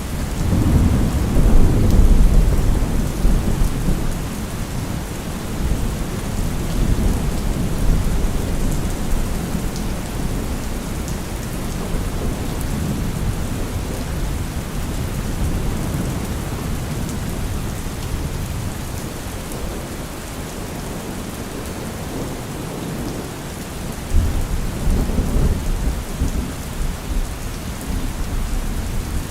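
Steady rain with rolling thunder. A heavy low rumble swells in the first few seconds, and another begins suddenly about 24 seconds in.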